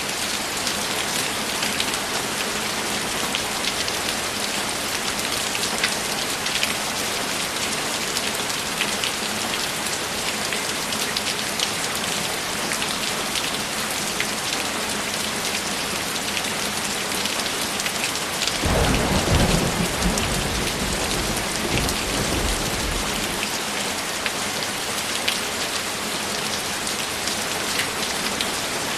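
Steady rain with scattered individual drop hits. About two-thirds of the way through, a low rumble of thunder swells and fades over about five seconds.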